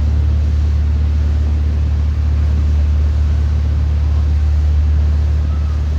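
Steady low rumble of an R160 subway train running, even and unchanging, with no pitch rise or fall.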